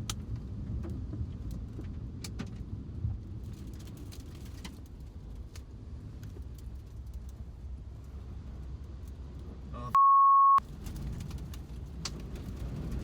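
Steady low rumble with faint scattered clicks. About ten seconds in, all other sound cuts out under a short, loud, single-pitched beep: a censor bleep over a word.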